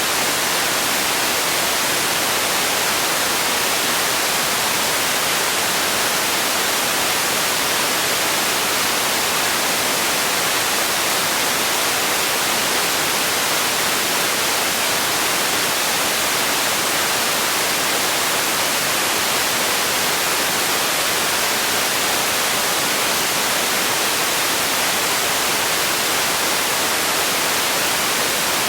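Steady synthetic hiss of white noise for sleep: an even, unchanging rush, strong in the treble and thin in the bass.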